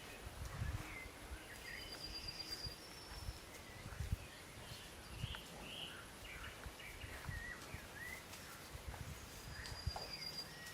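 Birds chirping and calling in short scattered phrases, with a short high trill twice. Low, uneven wind rumble on the microphone runs underneath.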